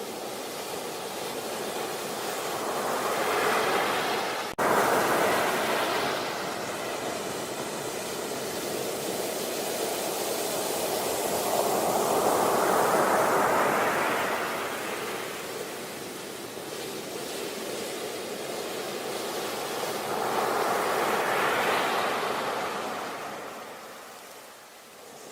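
Sea waves breaking on a beach. The surf swells and falls back three times, about every nine seconds, with a momentary dropout about four and a half seconds in.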